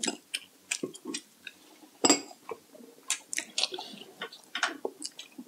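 Eating sounds: irregular wet clicks and smacks of people chewing food.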